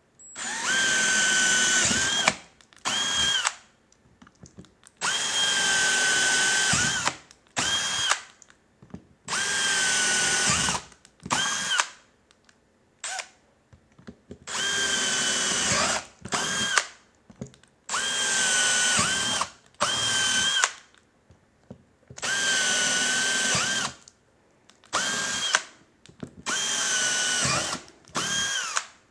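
Power drill drilling holes through a motorcycle saddlebag. It runs in about seven spurts of one to two seconds, most followed by a quick short blip. The motor whine winds up at the start of each spurt and winds down as the trigger is released.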